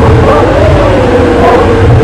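A vehicle engine running loudly, with a steady whine whose pitch rises and falls slightly about half a second in and again near the end.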